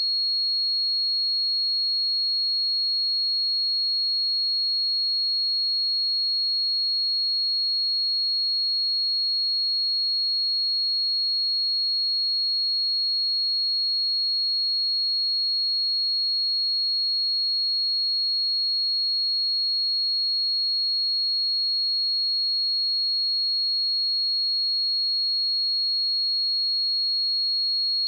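A pure 4305 Hz sine-wave test tone, one steady high-pitched note at constant level, used for testing speakers and headphones.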